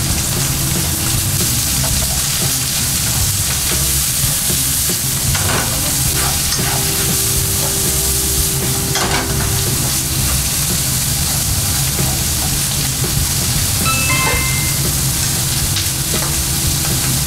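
Sausage, onion, green pepper and mushrooms sizzling in a hot frying pan as they are stir-fried with chopsticks, with a few light clicks against the pan, over a steady low hum.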